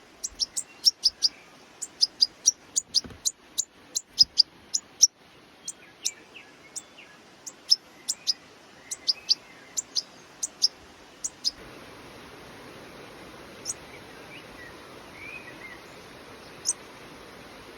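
Fledgling goldfinch chirping: short, high cheeps come quickly one after another, then thin to a couple of lone calls after about 11 seconds as a steady hiss comes up.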